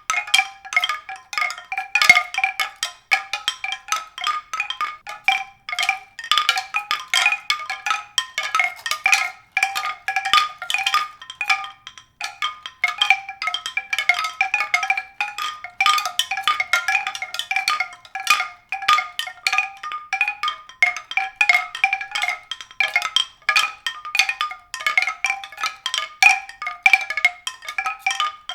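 Struck pitched percussion: a dense, irregular stream of short, quick notes on a few recurring pitches, running without a break.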